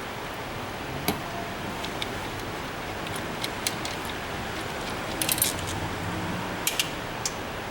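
Scattered light metallic clicks and clinks of hand tools being handled during engine work, with a few quick clusters about five and seven seconds in, over steady background noise.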